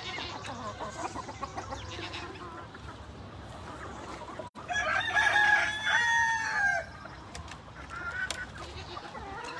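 Rooster crowing once, for about two seconds, about halfway through. Chickens cluck faintly throughout.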